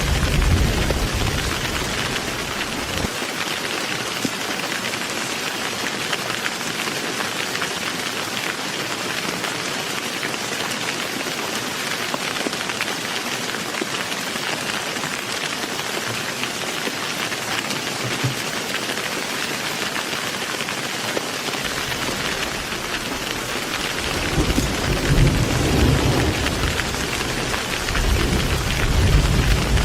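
Heavy rain falling steadily, with low thunder rumbling for the first few seconds and rolling in again near the end, swelling twice.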